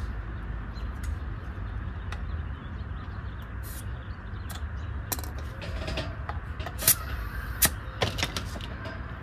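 Scattered light mechanical clicks and taps over a low steady hum, with two sharper clicks about two-thirds of the way through.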